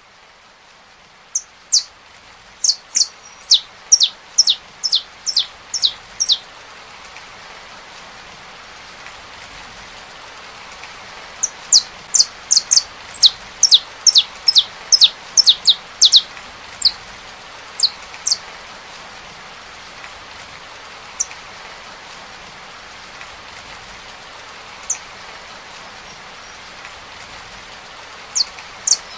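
Saffron finch singing: two runs of rapid, sharply falling high notes, about a second and a half in and again about eleven seconds in, then a few single notes. Underneath is a steady hiss of rain that swells during the first few seconds.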